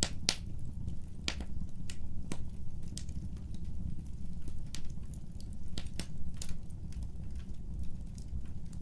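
Wood fire burning: irregular sharp crackles and pops from the burning wood, the loudest just after the start, over a steady low rumble of the flames.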